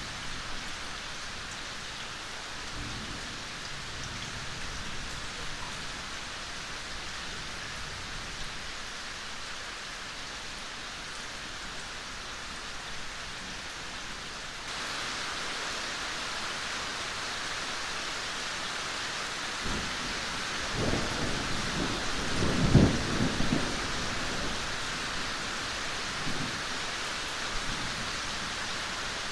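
Steady rain falling, growing louder about halfway through. A low rolling rumble of thunder builds from about two-thirds in and is loudest about three-quarters of the way through, then fades.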